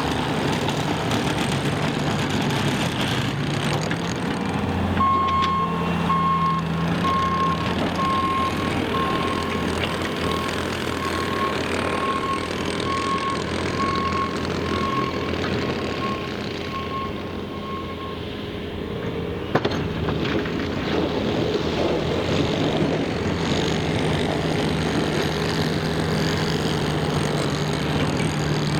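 Truck engine running steadily, with a vehicle's reversing alarm beeping about once a second from about five seconds in until a little past halfway. A single sharp knock comes soon after the beeping stops.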